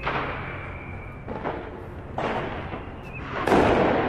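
New Year's Eve fireworks and firecrackers going off: four bangs with echoing tails, the loudest about three and a half seconds in, and a thin whistle through the first second.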